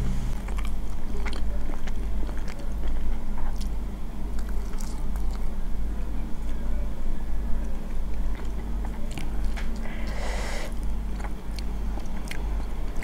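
Close-miked chewing of instant carbonara ramen noodles, with many small wet clicks and a fork working through the noodles on the plate. There is a short louder noisy sound about ten seconds in, and a steady low hum underneath.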